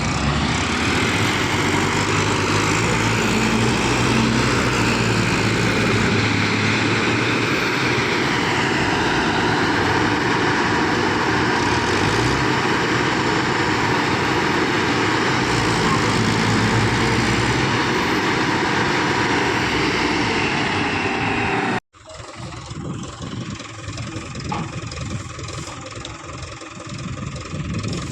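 Farm machinery's diesel engine running steadily and loudly, its pitch drifting up and down a little. About 22 seconds in the sound cuts off abruptly, and a quieter engine sound follows.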